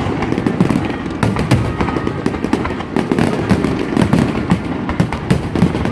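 Fireworks show: rapid, dense bangs and crackling from aerial shells bursting, over a continuous rumble.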